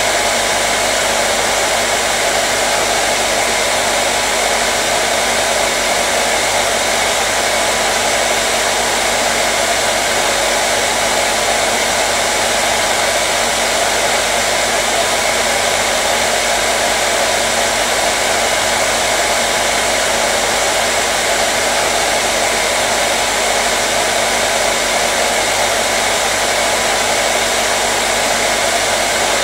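Hair dryer running steadily: an even, unbroken rush of air with a faint motor hum underneath.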